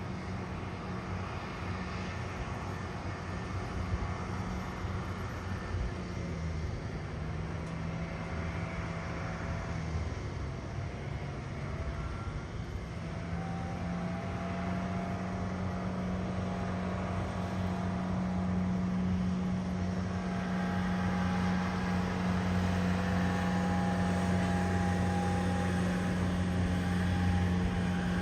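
Steady mechanical hum of a Boeing 787-9 on the ramp during pushback, its low tones stepping up in pitch a couple of times and growing louder in the second half.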